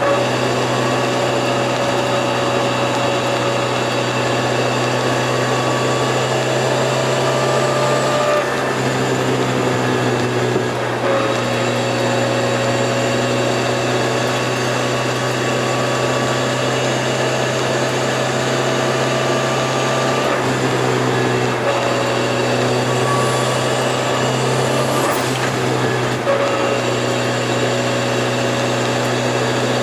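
Turbocharged Toyota AE86's engine running at a steady cruise, its note holding level for long stretches. A few times the note briefly breaks and settles at a slightly different pitch.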